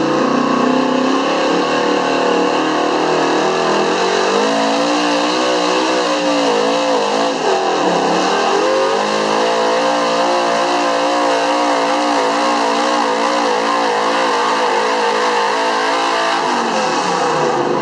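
Big-block V8 in a Chevy pickup at full throttle pulling a truck-pull sled. The engine note climbs about four seconds in, dips sharply around eight seconds as it loads down, recovers, and drops away near the end.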